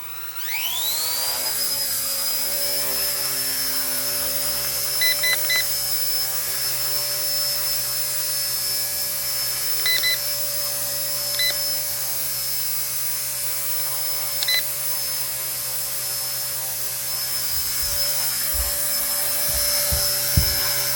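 Electric motor and rotor of a 1/48 scale RC ERA Huey micro RC helicopter spooling up with a rising whine, then holding a steady high-pitched whine. Short electronic beeps sound a few times, and there are a few low thumps near the end.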